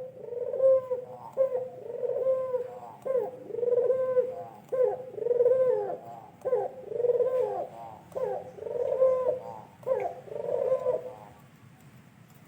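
A white pugeru bird calling in a fast series of cooing notes, about one a second, each note bending down and up. The calls stop shortly before the end.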